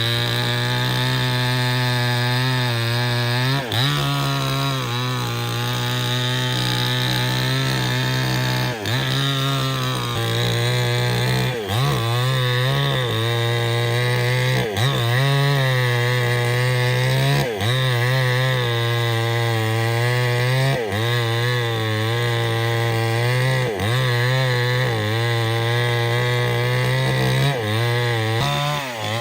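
Two-stroke chainsaw cutting wood, running steadily under load, its engine pitch dipping briefly and recovering every few seconds as the chain bites.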